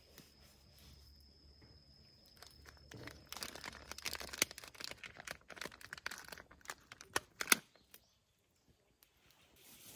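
Crinkling and rustling handling noise with a run of sharp clicks, starting about three seconds in and stopping suddenly near eight seconds. Before it, a steady high insect trill is heard, and it stops as the rustling begins.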